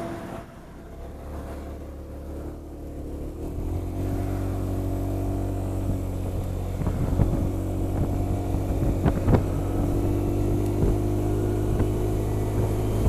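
Honda SH 300i scooter's single-cylinder engine running at a steady idle, growing louder about four seconds in, with a few sharp clicks and knocks over it.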